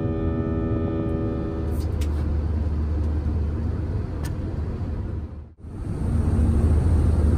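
Steady low rumble of an airliner cabin, the drone of the jet engines and airflow. For about the first second and a half a sustained musical chord sounds over it. The rumble cuts out abruptly about five and a half seconds in, then comes back louder.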